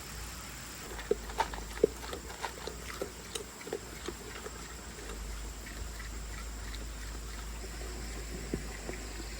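A dozen or so short, irregular sounds from an animal, mostly in the first half, over a steady low rumble.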